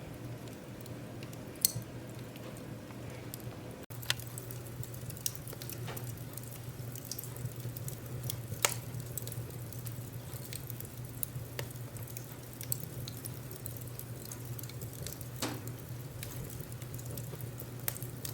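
Wood fire crackling: irregular sharp pops and snaps, a few louder than the rest, over a steady low rumble of burning flames, with a brief dropout about four seconds in.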